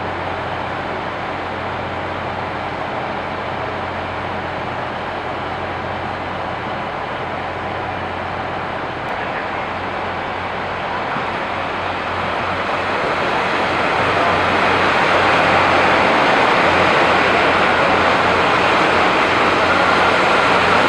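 Tze-Chiang express train pulling into a station platform: the rumble of the train grows louder from about twelve seconds in and then holds steady. Under it runs a constant low hum.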